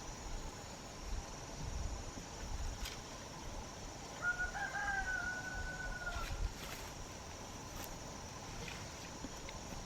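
A rooster crowing once, one drawn-out call of about two seconds, over a steady high-pitched insect buzz.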